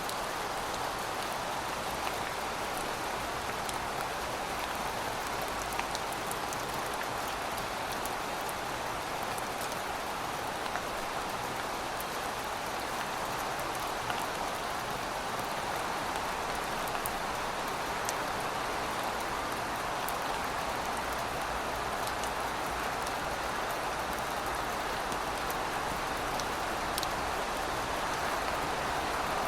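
Steady rain falling on pavement, an even patter with scattered small drop ticks.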